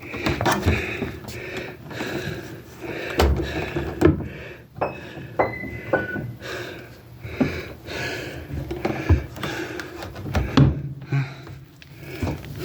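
Repeated knocks, thuds and rustling from someone moving about and handling things in a small room, with a brief high beep-like tone a little past the middle.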